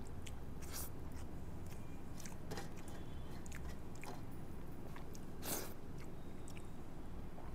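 A person chewing and eating rice by hand, close to a clip-on microphone: soft mouth clicks spaced through, with one louder brief rustle about five and a half seconds in.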